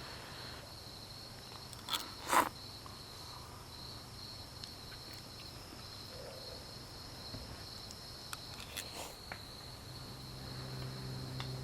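Insects trilling steadily in a continuous high-pitched chorus. Two sharp knocks come about two seconds in and a few lighter clicks later, and a low steady hum comes in near the end.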